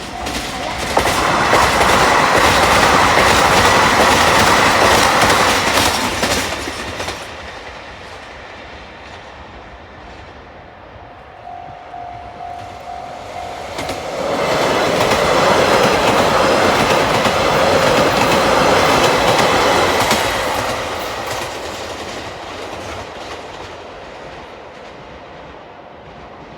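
Two JR Hokkaido express trains, a KiHa 261 series diesel and a 789 series electric, pass over a level crossing one after the other; each swells up, clatters over the rails for several seconds and fades away. Between and after the trains the crossing's warning bell rings steadily.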